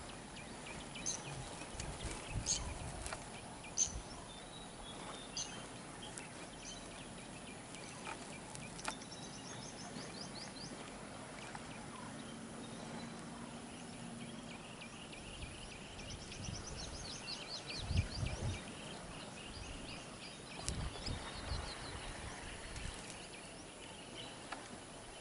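Wild birds chirping, with a couple of rapid trills, over a quiet outdoor background. A few low thuds stand out, about two and a half seconds in and again near eighteen seconds.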